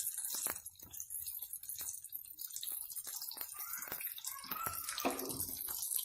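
Hot oil sizzling in a frying pan, with many small crackles and pops, as vegetable 'fish' cutlets of potato, carrot and beetroot fry golden.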